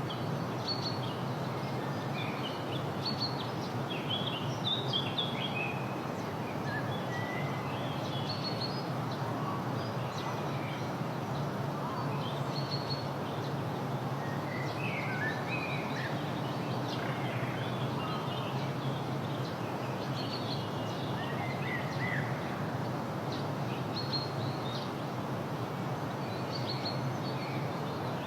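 Wild birds chirping and calling: many short, high chirps scattered throughout, over a steady background hiss with a low hum.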